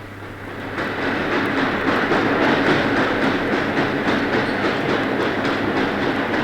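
Train running on rails, from an old sound-effects recording: the noise builds up over about the first second, then runs steadily with a regular clatter of the wheels.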